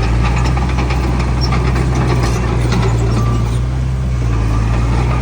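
Heavy diesel construction machinery running steadily: a deep, constant engine hum, with rapid light metallic clicks and clanks over it.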